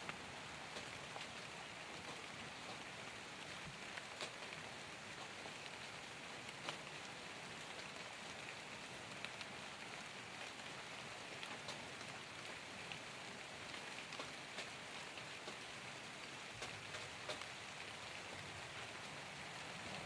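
Steady rain falling: an even hiss with separate louder drops striking here and there.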